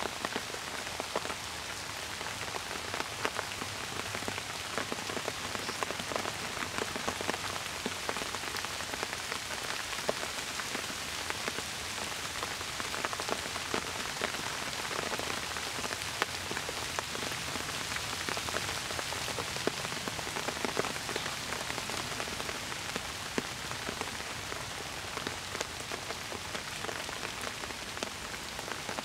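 Steady rain: an even hiss with many individual drops ticking close by.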